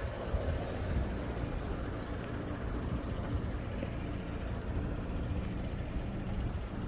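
Audi SQ5's turbocharged V6 idling steadily with a low, even rumble.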